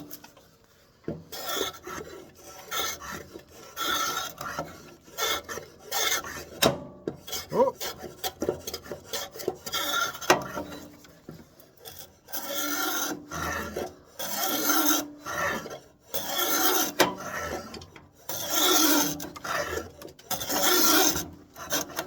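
A hand tool scraping along the corners of a square walnut blank in repeated strokes, taking the square edges off before it is turned on the lathe. The strokes come irregularly at first, then roughly every two seconds in the second half.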